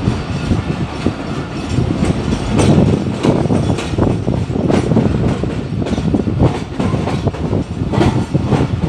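Diesel-electric locomotive of the Awam Express, a ZCU-30, running along the track, heard from beside its cab: a dense, loud rumble with repeated clacks of the wheels over the rails at irregular spacing.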